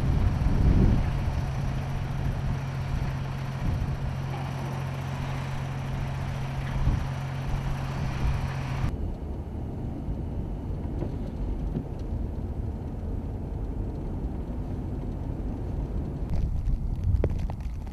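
A motor vehicle's engine running steadily with a low hum and broad noise, cut off abruptly about halfway through and replaced by a quieter, duller rumble, with a few clicks near the end.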